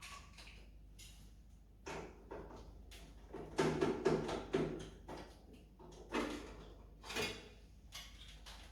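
Irregular clicks, knocks and scraping from hands working with tools and parts, over a low steady hum. A louder rattling stretch comes about three and a half seconds in, with a few more knocks near the end.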